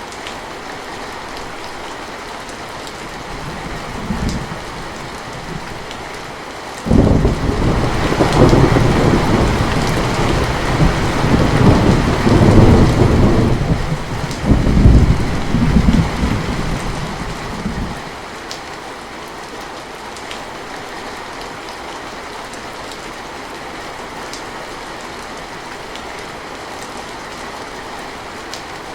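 Steady rain falling. About seven seconds in, a clap of thunder breaks in suddenly and rumbles on in waves for about ten seconds before the rain is left alone again.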